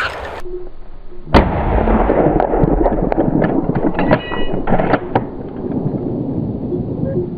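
A single hunting rifle shot about a second and a half in, followed by a low rolling rumble and a few lighter clicks and knocks.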